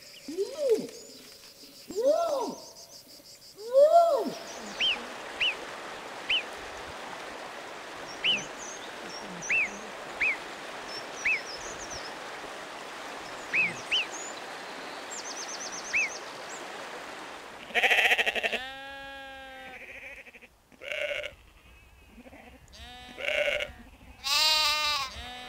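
A series of animal calls. First an orangutan calls three times, each call rising then falling in pitch. From about five seconds in comes a marmot: about ten short, high squeaks spaced a second or so apart over a steady hiss. From about eighteen seconds in a sheep bleats several times.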